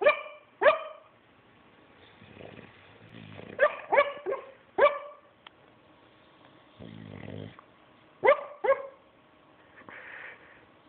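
Bulldog snoring with a weird mix of sounds: low rattling snores, twice, alternating with short high squeaks that rise sharply in pitch, coming in quick groups of two to four.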